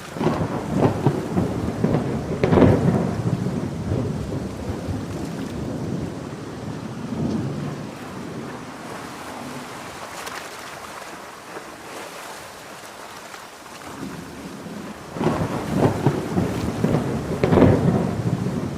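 Thunderstorm with heavy rain falling steadily. Thunder rumbles loudly at the start and dies away over several seconds, then a second loud crackling rumble breaks about fifteen seconds in.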